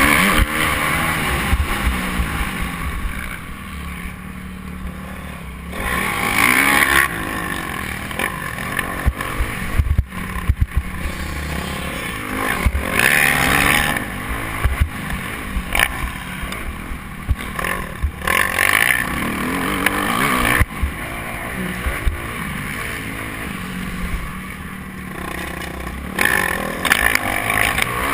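Motocross bike engine running hard, revving up and easing off several times, with low rumble and short knocks underneath.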